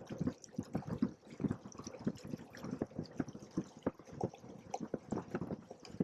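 Water slapping and gurgling against the hulls of a Hobie Cat 16 catamaran in quick, irregular splashes.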